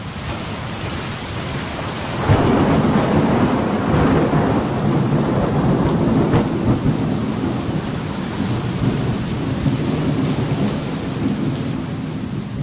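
Thunderstorm sound effect: heavy rain falling steadily with rumbling thunder. The rumble swells louder about two seconds in and keeps going.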